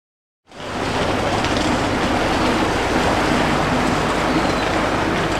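Train running on rails, a steady rumble and hum with faint clicks, starting abruptly about half a second in.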